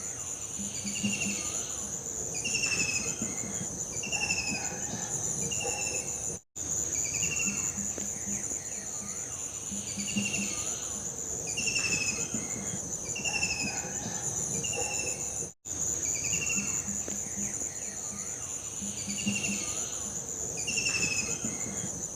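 Looped nature-ambience track: a steady high insect trill with repeated short, falling bird-like chirps over it. The recording restarts about every nine seconds, cutting out briefly at each loop.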